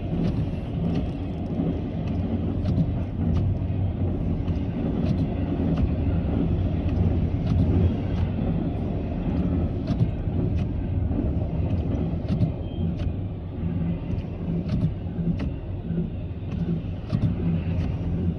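CSX intermodal freight train rolling past at about 56 mph: a steady rumble of wheels on rail, with sharp clicks recurring every half second or so.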